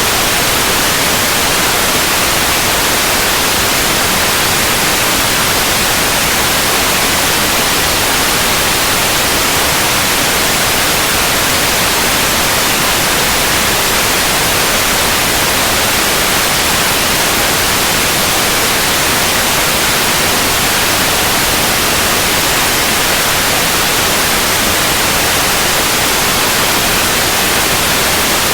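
Steady, unbroken white noise: an even hiss with no changes or events.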